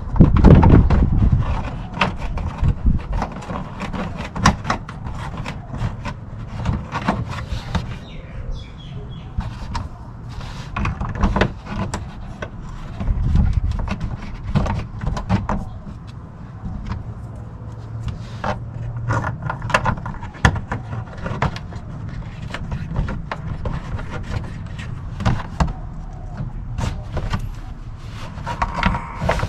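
Clicks, knocks and rattles of hand tools and a plastic cover being fitted under a car, with a sharp clatter at the start and a steady low rumble underneath.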